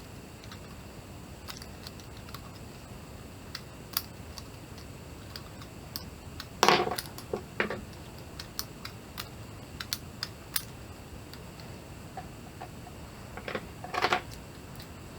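Light plastic clicks and clacks from a 3D-printed balisong being handled, with a louder clack about six and a half seconds in, another a second later, and a pair near the end.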